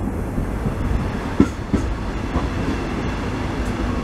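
Train running on the rails, heard from on board: a steady low running noise with two sharp knocks about a second and a half in.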